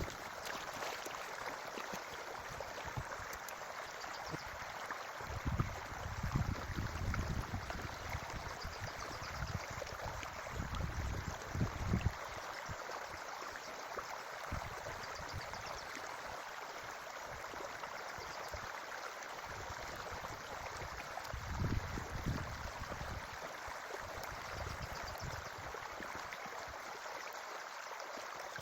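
Forest creek running with a steady rush of water, with irregular low rumbles now and then, mostly in the first half.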